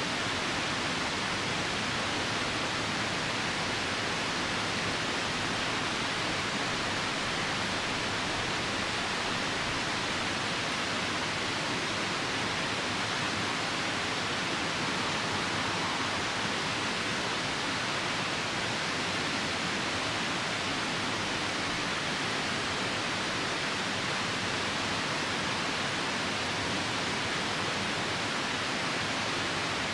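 Steady rushing of a nearby river mixed with falling rain, an even hiss that does not change.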